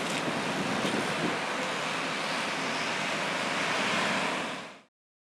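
Steady rushing noise of wind and a ferry's running machinery, fading out abruptly near the end.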